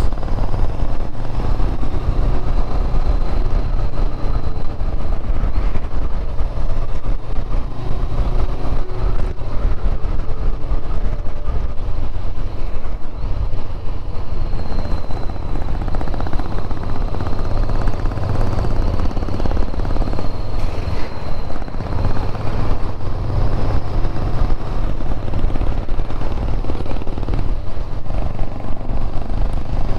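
Steady wind rushing over the microphone with a Honda CB500X parallel-twin motorcycle engine running under it at riding speed.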